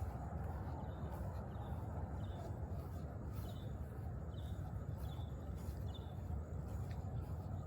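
A small bird chirping repeatedly, short high notes about once a second, over a steady low rumble.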